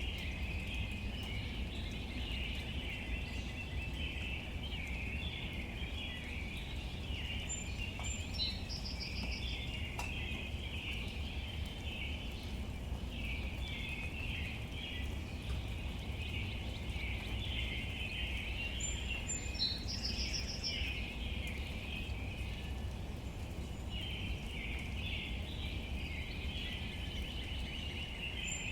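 Outdoor nature ambience: a dense, steady chorus of small high chirps over a low rumble. Twice, about 8 and 19 seconds in, a bird gives a short high note followed by a fast trill.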